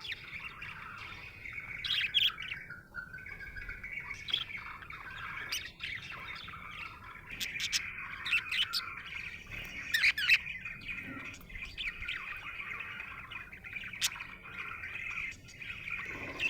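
Budgerigar chirping and warbling without a break, with sharp louder chirps about two seconds in and again about ten seconds in.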